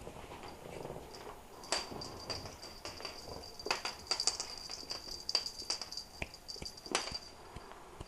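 Ragdoll kittens moving about, making irregular light taps and clicks, with a faint steady high tone under them.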